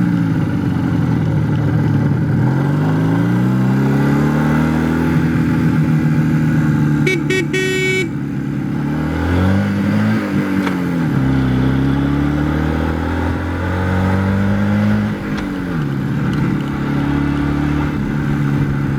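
IZh Jupiter 4's two-cylinder two-stroke engine running under way, its pitch rising and dropping several times as it pulls and shifts gears. A horn sounds briefly about seven seconds in.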